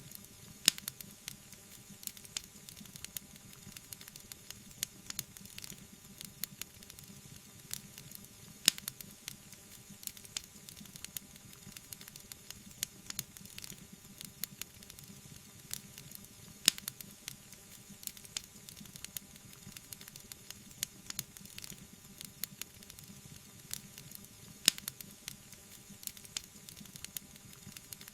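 Wood fire crackling, with many small snaps over a soft hiss and a few louder pops about eight seconds apart.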